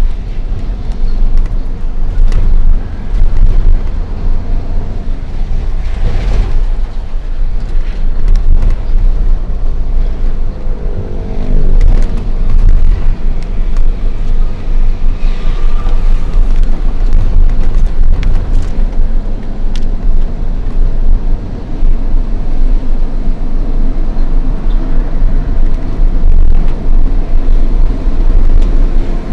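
Steady low rumble of a Hino FL 260 JT truck's diesel engine and road noise as it drives under a heavy load, with a short falling tone about eleven seconds in.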